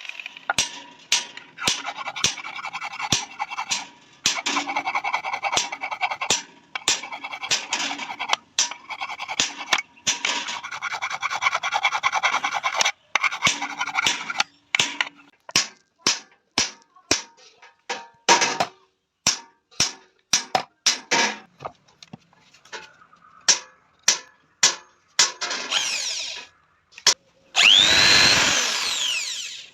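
Hand metalwork on a steel part: long stretches of rubbing or filing broken by sharp clicks, then a run of separate sharp taps about one or two a second. Near the end a power tool, a drill or similar, runs briefly and loudly with a gliding pitch.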